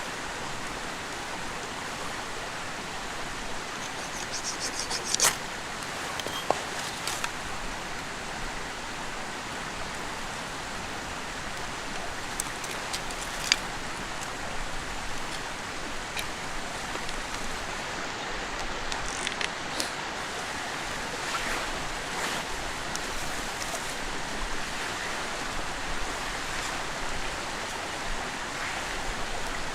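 A clear mountain river rushing steadily, with a few scattered sharp clicks and taps over it.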